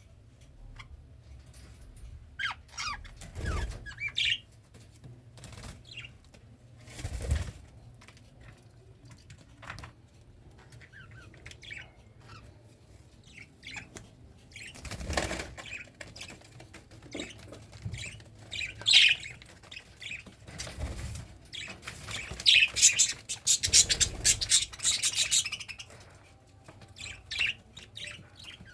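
Pet cockatiel chirping in short, scattered bursts, with several brief flutters of wing flapping in between; the busiest stretch of chirps and flapping comes about three quarters of the way in.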